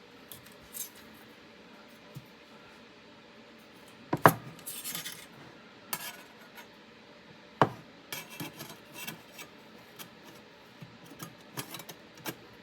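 Metal gear being handled: light clinks and rubbing, with two sharper knocks about four and seven and a half seconds in.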